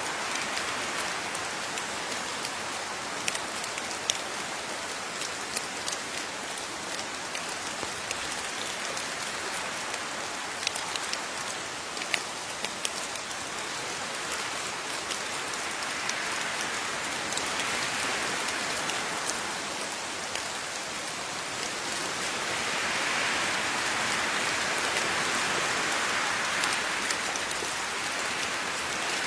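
Steady rain falling, with individual raindrops ticking sharply on a surface; the downpour swells a little heavier about two-thirds of the way through.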